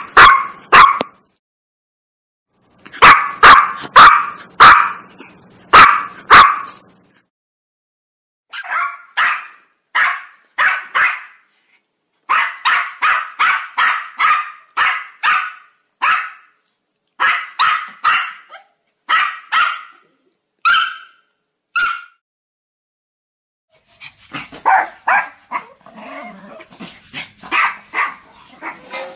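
Dog barking in runs of short, sharp barks, several a second at times, with dead silence between the runs. The calls turn busier and more mixed in the last few seconds.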